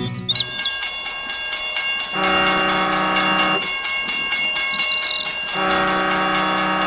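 Train running on rails with a quick, even clickety-clack, sounding two long horn blasts of about a second and a half each.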